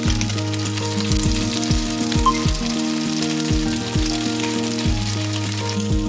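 Food sizzling steadily in oil in a frying pan, with background music of held tones and a deep falling bass note that repeats every half second or so.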